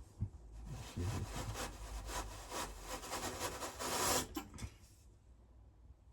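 Dry rubbing and scraping as the furnace's heating element and its rings are worked loose and pulled out of the furnace body. It comes as a quick run of scraping strokes starting about half a second in, is loudest around four seconds, and stops about five seconds in.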